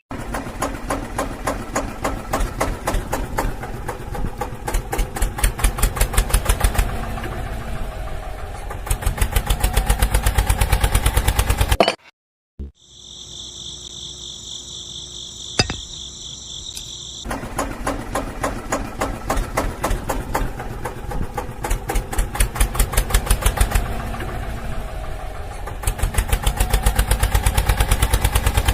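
Small model machine running with a fast, uneven train of mechanical knocks, which speeds up and slows down. About twelve seconds in it cuts off sharply. A quieter stretch follows with a steady high whine and a single click, then the knocking machine starts again about five seconds later.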